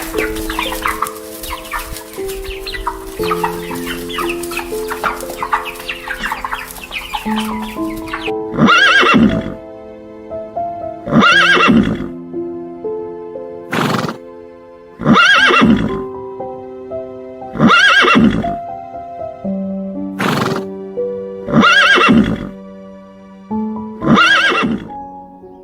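An animal calls loudly over background music, about six times, each call about a second long and two to three seconds apart. For the first several seconds before these calls there is a dense chatter of many short animal calls.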